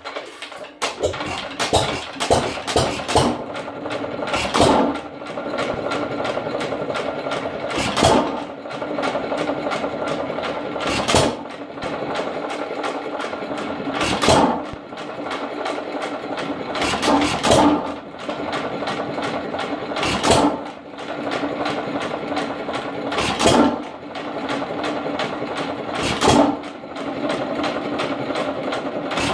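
1 1/2 hp Hercules single-cylinder hit-and-miss engine starting up: a quick run of firing strokes in the first few seconds, then it settles into a steady mechanical clatter as it coasts on its flywheels, with one loud firing stroke about every three seconds.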